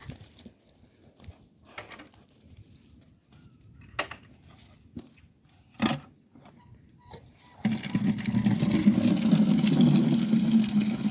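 A couple of sharp knocks, then about two-thirds of the way in water starts running hard into a bucket and keeps going steadily.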